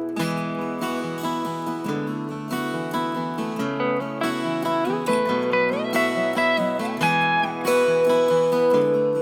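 Background music played on acoustic guitar: plucked and strummed chords that change every second or so, with a few sliding notes.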